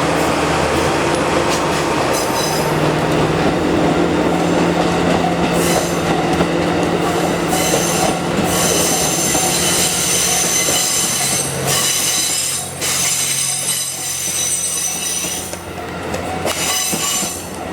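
Train hauled by a DD51 diesel locomotive rolling past: a steady low engine drone in the first half. From about halfway in, the wheels squeal high and steadily, breaking off briefly a couple of times, over the rumble and clatter of the coaches on the rails.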